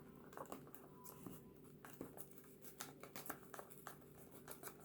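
Faint scattered clicks and light scraping of hands handling slime-making containers and ingredients, over quiet room tone.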